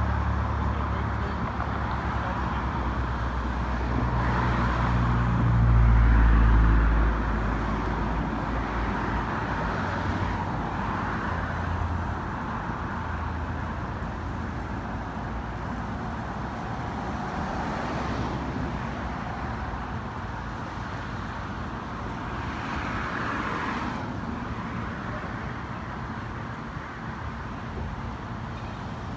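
City road traffic: a vehicle's engine runs close by, loudest about six seconds in, then fades into a steady traffic hum.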